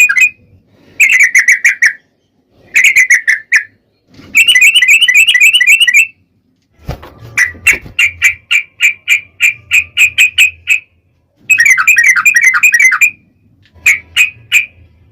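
Yellow-vented bulbul song: loud phrases of rapid bubbly chattering notes, each lasting a second or two with short pauses between, and a run of separate evenly spaced notes in the middle.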